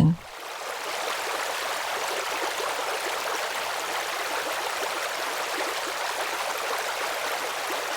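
Steady running water of a stream, an even flowing sound with little bass.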